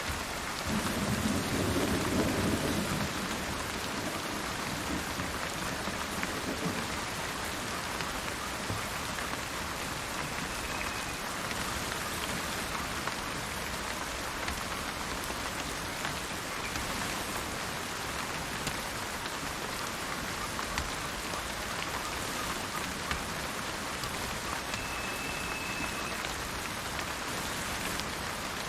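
Steady rain falling, with a low roll of thunder about a second in that lasts a couple of seconds. A bird gives two short, faint high whistles later on, far apart.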